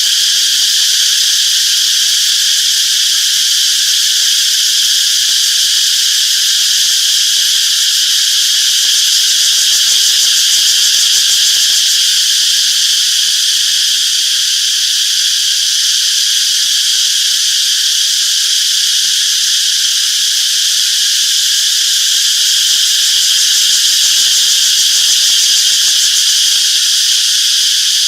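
Chorus of cicadas buzzing continuously and steadily in a high-pitched drone, without pauses.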